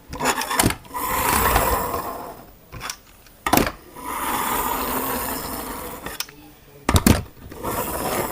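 A toy RC bulldozer's small electric motor and plastic gears running in three spurts of about two seconds each, with sharp clicks in between.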